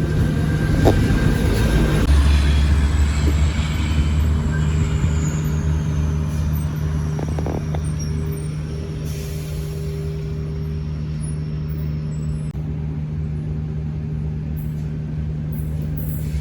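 Electric suburban train at the station: a steady low rumble and hum, with a high whine that falls slowly in pitch over several seconds and fades.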